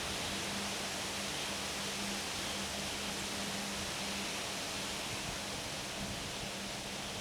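Steady wind blowing through trees, an even rustling hiss, with a faint steady low hum underneath.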